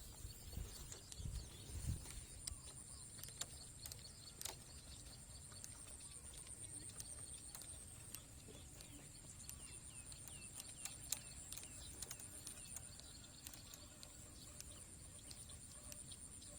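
Faint outdoor animal ambience: a steady high-pitched buzz with scattered clicks and a run of small chirps about ten seconds in.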